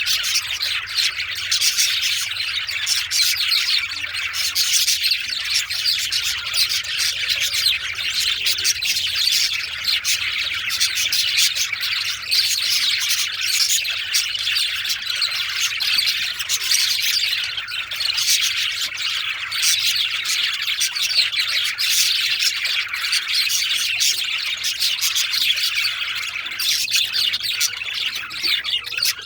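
Several male budgies chattering and chirping continuously, a dense warble of rapid chirps with occasional harsher squawks.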